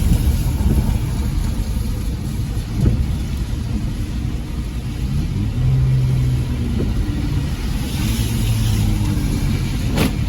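Car engine and road noise heard from inside the moving car, with the engine note shifting in pitch as it drives. A single sharp click comes near the end.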